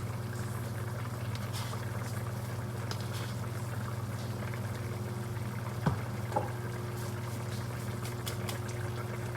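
Pot of soup simmering on the stove over a steady low hum, with faint scattered clicks and one sharper tick about six seconds in.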